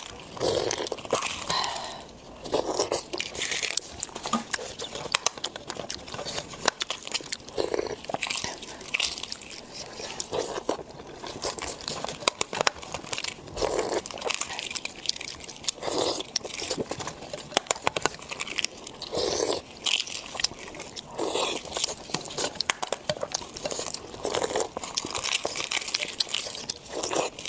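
Close-miked eating sounds: a person chewing spicy pork belly, with repeated wet smacking chews, occasional crunches and small sharp clicks.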